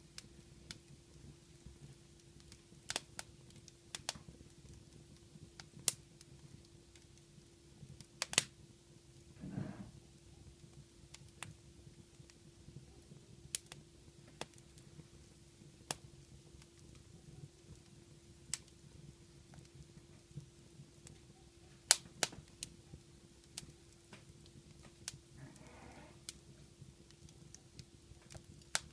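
Wood fire crackling in a fireplace: sparse, irregular sharp pops and snaps, a few of them much louder than the rest.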